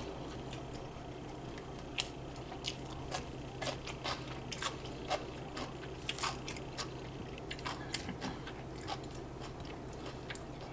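A person chewing and smacking food close to the microphone, with irregular wet clicks and crunches scattered throughout, over a low steady hum.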